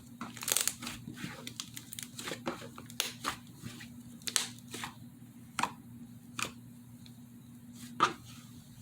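Slime being squeezed and stretched by hand, giving irregular sharp pops and crackles, with the loudest pops about half a second in and near the end.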